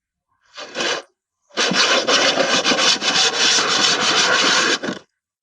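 Sandpaper rubbing back and forth over the sawn plastic edge of a washing machine tank, roughening the cut surface so sealant will adhere. A brief stroke about half a second in, then steady rubbing for about three and a half seconds that stops abruptly.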